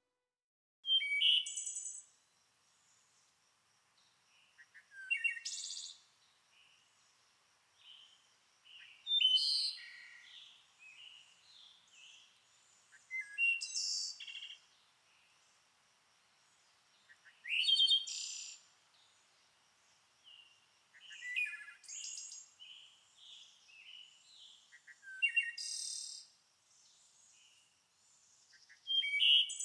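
A songbird singing short, high-pitched phrases, about eight of them, each a second or so long, with a few seconds' pause between.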